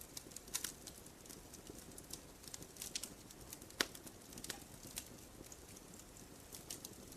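Fire in a fireplace crackling: scattered, irregular pops and snaps over a faint steady hiss, the sharpest pop a little before four seconds in.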